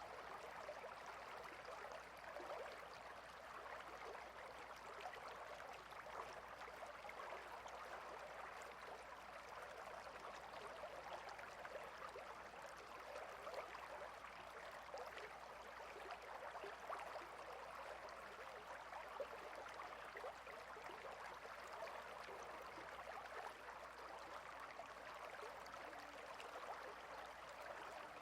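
Small stream flowing and babbling steadily over stones, a faint even trickle of water.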